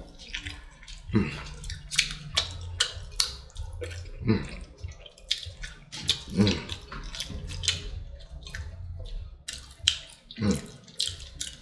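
Close-miked wet chewing and lip-smacking while eating jerk chicken and rice, many irregular sharp mouth clicks a few times a second over a low steady hum.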